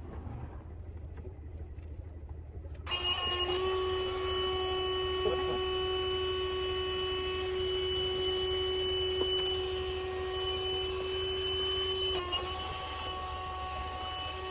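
A small electric motor starts about three seconds in and runs with a steady whine at one pitch, dipping briefly near the end.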